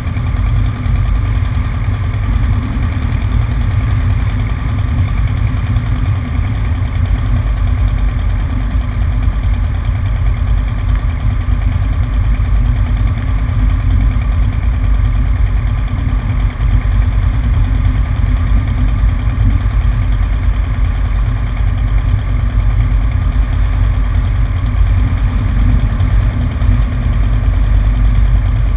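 Cessna 150's four-cylinder Continental O-200 engine and propeller running at steady power, heard from a camera on the right wing.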